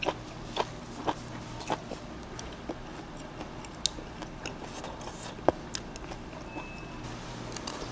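A person chewing crunchy food close to the microphone: sharp crunches about twice a second at first, then more spaced out, over a low steady hum.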